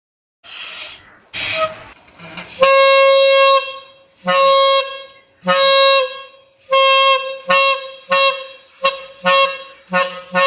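Homemade bamboo-tube horn with a balloon membrane as its reed, blown by mouth. It starts with a couple of breathy, unpitched puffs, then sounds a buzzy honking note held for about a second, followed by a string of shorter honks on the same pitch that come faster toward the end.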